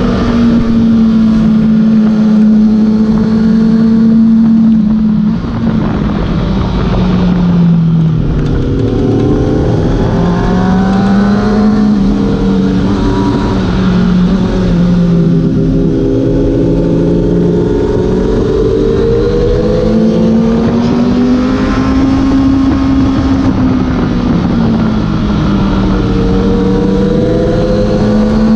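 Kawasaki ZX-6R's inline-four engine under way over wind noise on the moving bike: it holds steady revs at first, drops as the throttle closes about five seconds in, then rises and falls again and again through a run of bends.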